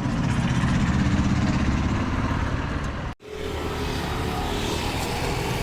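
Steady vehicle engine and traffic rumble. It breaks off abruptly for a split second about three seconds in, then resumes much the same.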